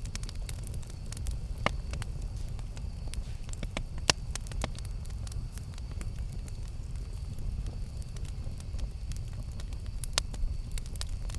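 Wood campfire burning with a low steady rumble and irregular crackles and pops, a few sharper pops standing out about 1.7, 4 and 10 seconds in.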